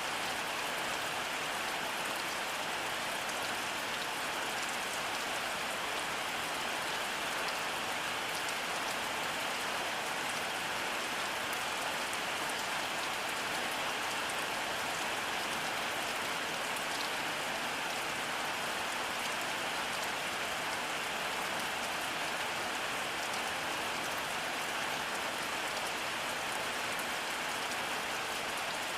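Steady rainfall, an even hiss of many drops with fine scattered patter and no thunder.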